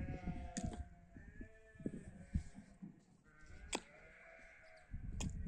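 Several sheep bleating, their calls overlapping, with a couple of short sharp clicks.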